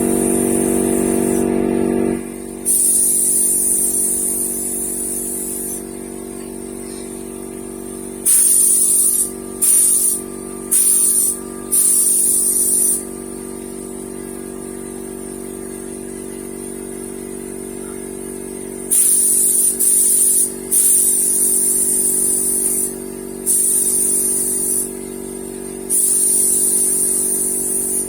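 Paint spray gun hissing in about nine on-off bursts as the trigger is pulled and released, some short, some lasting a few seconds. Underneath, the spraying equipment's motor hums steadily, louder for the first two seconds and then settling to a lower level.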